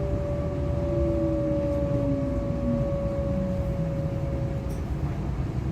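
DB Class 425 electric train's traction motor whine, heard from inside the car over a low running rumble. One tone falls steadily in pitch over about four seconds as the train slows for a stop, and a steadier, higher tone fades out near the end.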